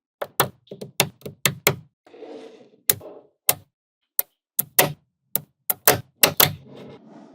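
Small neodymium magnetic balls snapping together with sharp, irregular clicks, about twenty of them, with a softer rattle of balls shifting against each other about two seconds in and again near the end.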